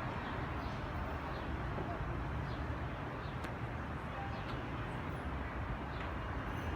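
Steady low outdoor background rumble, like distant traffic, with a few faint ticks scattered through it.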